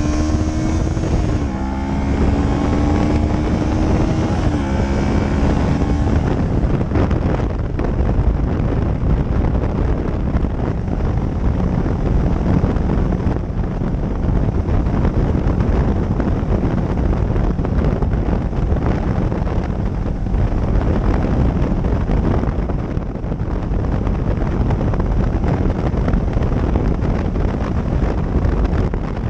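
Motorcycle engine pulling through the gears, its pitch climbing and dropping back at each shift over the first six seconds. Then a steady rush of wind and road noise over the microphone at cruising speed.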